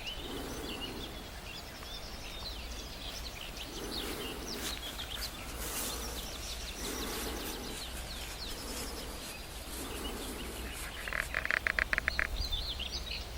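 Several small birds chirping and singing. A loud, fast trill of evenly repeated notes comes near the end. A low, muffled sound recurs about every second and a half underneath.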